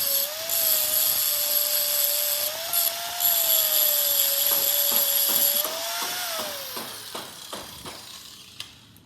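Electric power tool working metal, running under load with a steady whine and a high hiss. It is switched off about six seconds in and winds down to quiet.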